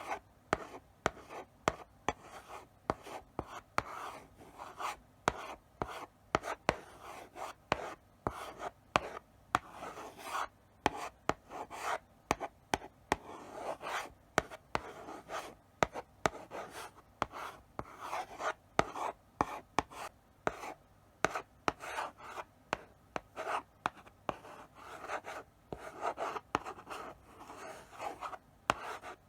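Chalk writing slowly on a blackboard: a run of short scraping strokes, each set off by sharp taps as the chalk meets the board.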